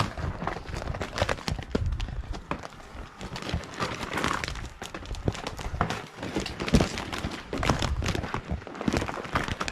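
Footsteps crunching through deep snow, an irregular run of short crunches and thuds.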